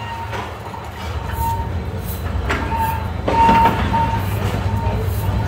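Passenger train pulling slowly out of a station, heard from an open carriage door. A low rumble from the running gear builds steadily, with two sharp knocks near the middle and a thin tone that comes and goes.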